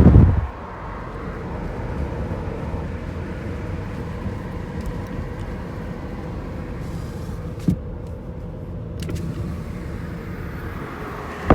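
Truck engine running steadily on the road, with one short knock about three-quarters of the way through.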